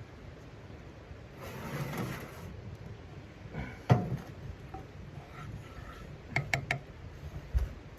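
Handling and knocking sounds: a brief scraping rustle, a single sharp knock about four seconds in, then a quick run of clicks and a low thump near the end.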